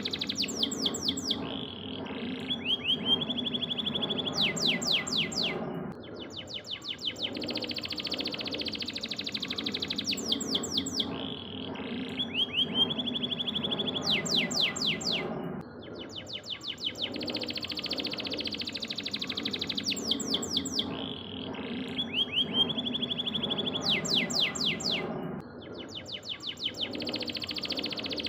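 Canary singing long rolling trills and rapid series of chirping notes, with a held whistled note in each phrase. The same song phrase repeats about every six and a half seconds, as a looped training recording does. A steady low rumble runs beneath the song.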